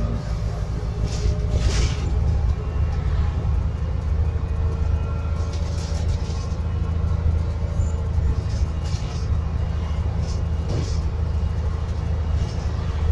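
Scania N280UD biogas double-decker bus under way, heard from inside: a steady low engine and road rumble, with a few brief rattles from the body.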